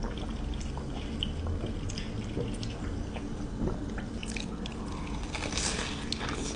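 Eating sounds close to the microphone: scattered small wet mouth clicks and chewing, with a brief hiss near the end.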